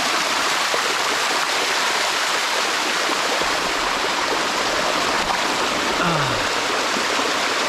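Water rushing down the rock cascades of a waterfall: a loud, steady rush.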